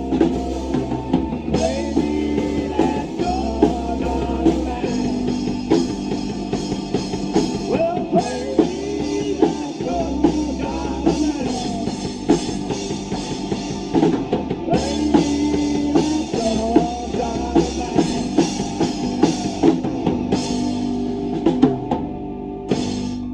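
A rock band playing live: a drum kit, a stepping bass line and a singer, the whole band stopping together abruptly near the end.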